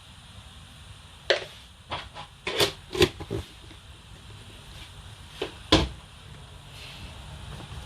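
Several sharp knocks and clatters, a quick cluster of five and then two more a couple of seconds later, over a steady hiss.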